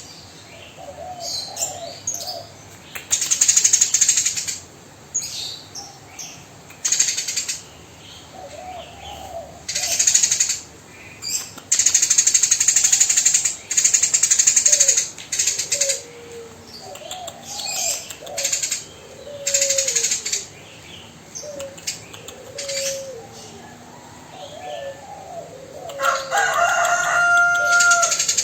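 Eurasian tree sparrow giving harsh, rapid chattering bursts, repeated every second or two, with short chirps between them.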